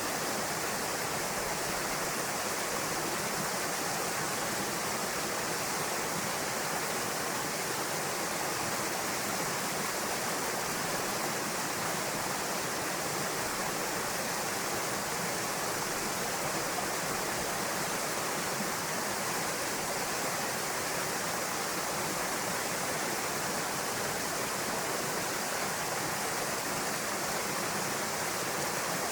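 Steady rush of a small waterfall spilling into a pool, an even wash of falling water with no changes.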